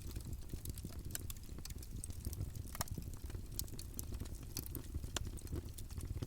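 Wood campfire burning with a steady low rumble of flames and irregular sharp crackles and pops from the burning logs.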